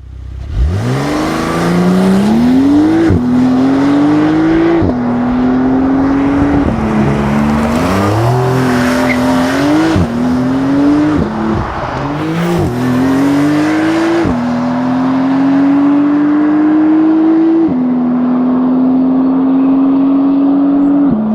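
Porsche 992 Carrera 2S twin-turbo flat-six accelerating hard through the gears. The engine note climbs in each gear and drops sharply at each quick upshift, about ten shifts in all, with the pulls growing longer toward the end.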